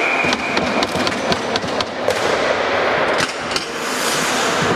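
Ice hockey play on a rink: a run of sharp clacks of sticks and puck, with skates scraping the ice and arena noise underneath.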